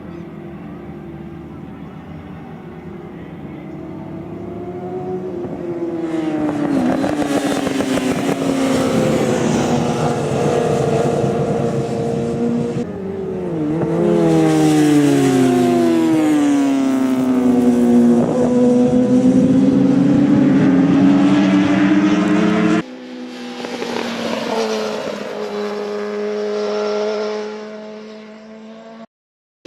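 Racing motorcycle engines at high revs, the pitch rising and falling as the bikes accelerate, shift and pass, with several bikes heard together in the middle. The sound cuts off abruptly a few times.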